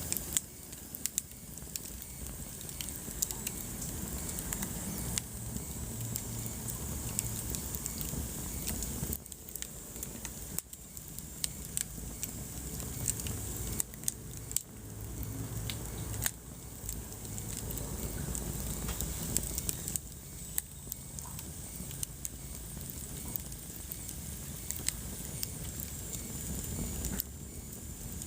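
Wood fire burning in a fireplace: a steady low rumble and hiss of the flames, with frequent sharp crackles and pops from the burning logs.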